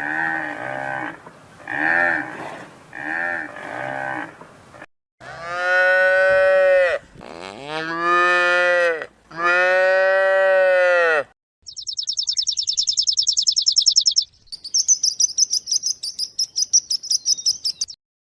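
Cattle mooing: three long calls, each lasting one and a half to two seconds, in the middle of the stretch. Before them come about five short pitched animal calls, roughly one a second. After them come two stretches of rapid, very high-pitched trilling.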